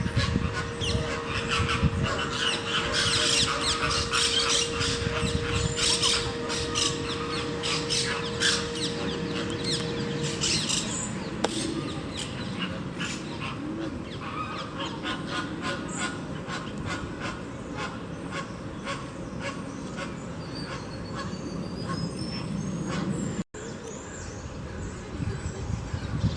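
Captive birds calling: a busy run of short, sharp calls that thins out after about ten seconds, with a thin whistled call near the end.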